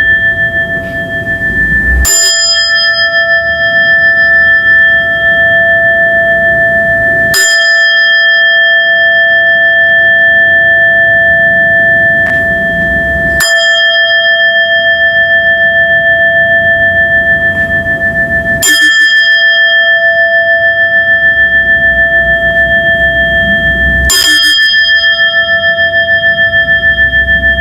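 Buddhist butsudan bell (rin) struck five times, about every five and a half seconds, each strike ringing on with several steady, layered tones until the next.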